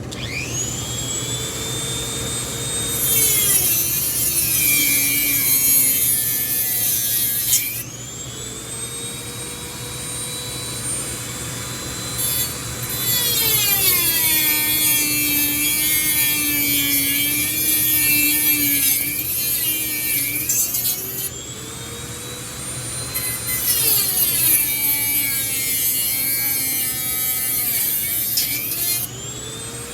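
Dremel rotary tool whining at high speed with a new bit, cutting into the metal of a ceiling fan motor. Three times its pitch drops and a rough grinding comes in as the bit bites into the work, and it speeds back up between cuts.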